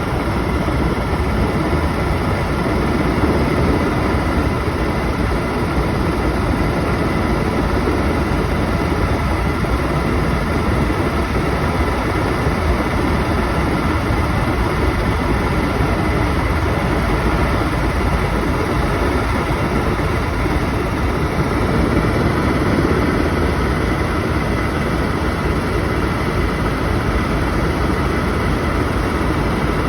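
Helicopter in flight: steady engine and rotor noise with a faint high whine, unchanging throughout.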